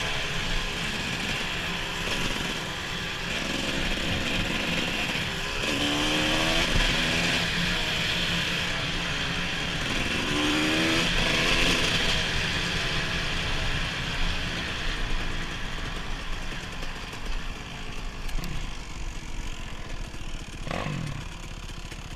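Dirt bike engine running while riding, revving up in pitch twice, with steady wind rush on the microphone. The engine winds down near the end.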